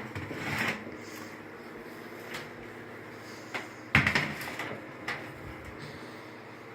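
Galaxy box fans running with a steady hum, broken by several knocks and clunks of handling, the loudest about four seconds in.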